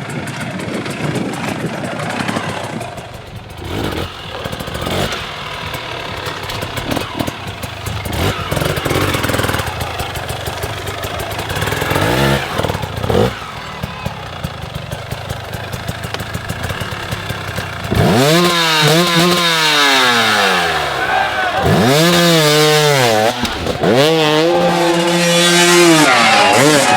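Hard enduro dirt bike engine working at uneven low revs with popping and clatter. About two-thirds of the way in it revs hard, rising and falling several times as the throttle is worked, then holds at high revs.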